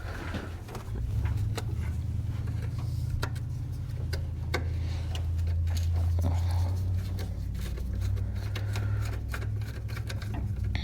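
Scattered light clicks and knocks of hand work on the engine's coolant hoses and fittings, over a steady low hum.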